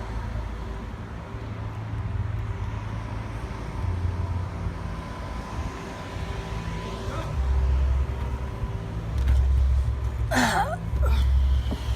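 Lamborghini engines idling: a steady low rumble, with several heavier low surges in the second half. A short high squeal cuts in about ten seconds in.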